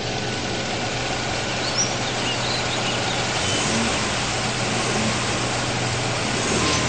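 Car engine running steadily at low revs, growing slightly louder as the car pulls out.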